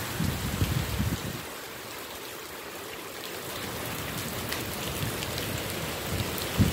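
Heavy hurricane rain falling steadily with a rushing hiss, with a low rumble in the first second or so.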